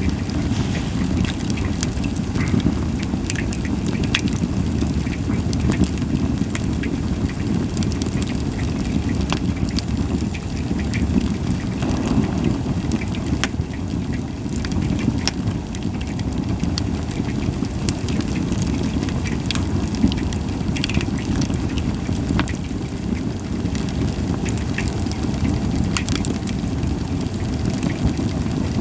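Japanese white pine (goyomatsu) firewood burning: a steady low rush of flames with scattered sharp crackles and pops, and little hissing.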